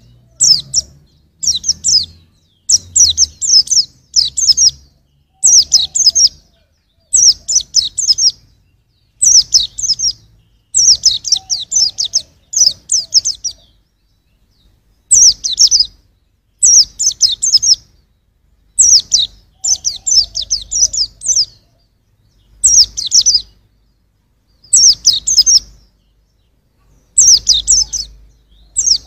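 White-eye (pleci) singing: short, high, rapid twittering phrases, one every second or two, with a pause of about a second a little before halfway.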